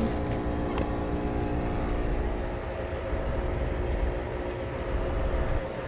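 Outdoor air-conditioning condensing unit running, a steady hum of several fixed tones over a low rumble. Its condenser fan is turning very slowly, which the filmer puts down to a cheap Chinese fan motor.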